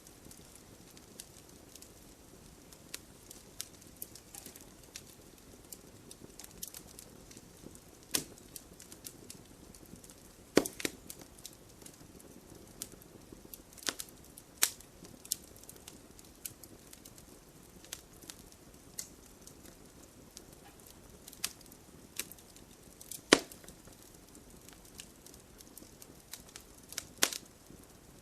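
Wood fire burning in a fireplace: a soft steady hiss with frequent small crackles and a few loud sharp pops.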